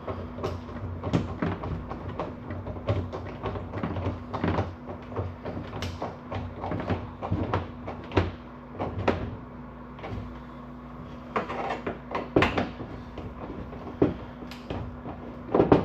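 Irregular clicks, knocks and rustling of hands fitting small parts by hand, with a couple of louder knocks near the end, over a steady low hum.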